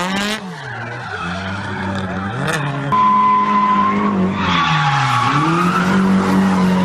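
Drift car's engine revving up and down as it slides, with the tyres squealing; the squeal grows louder and rougher from about four and a half seconds in.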